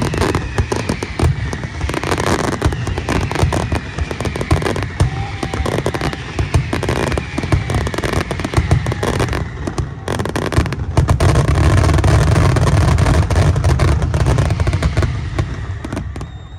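Aerial fireworks display: a dense, continuous barrage of bangs and crackling, with a whistle falling in pitch over the first few seconds. It swells into a heavy, rumbling run of shell bursts about eleven seconds in, then dies away near the end.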